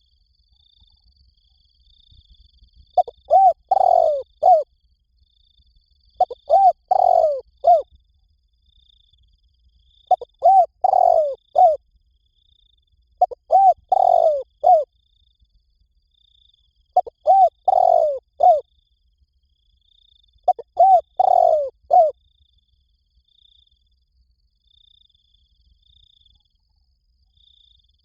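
Spotted dove cooing in repeated phrases of about four coos each, one phrase roughly every three and a half seconds, six in all, then a pause near the end. Faint high chirps repeat steadily underneath.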